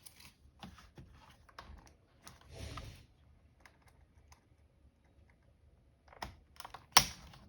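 Scattered light clicks and taps of a laptop keyboard and plastic chassis being handled, with a short rustle about two and a half seconds in and a sharp clack near the end.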